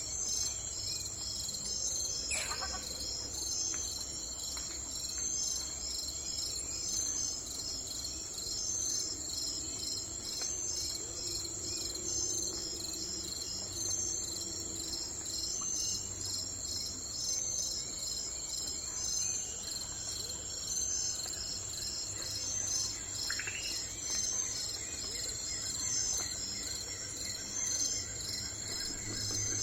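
Chorus of insects, crickets, keeping up a steady high-pitched pulsing trill with a steady whine above it, and a low background hum. A bird gives a brief call twice, about two seconds in and again near the end.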